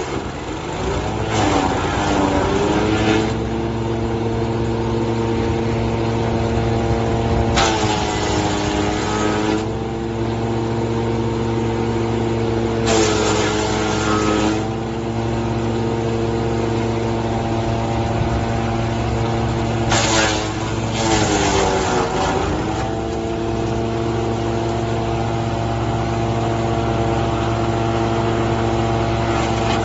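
Engine-driven wood chipper running steadily. About four times, branches are fed in, with a burst of shredding noise while the engine pitch sags under the load and then recovers.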